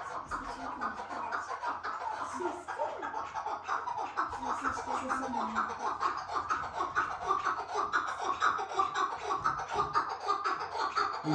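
Partridge (keklik) calling: a rapid, unbroken run of short clucking notes.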